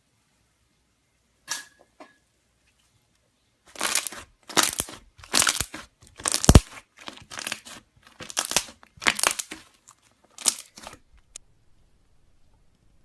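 Slime being squeezed and pressed by hand in a run of about ten short, sticky, noisy squishes, with one sharp pop in the middle. A single click comes first.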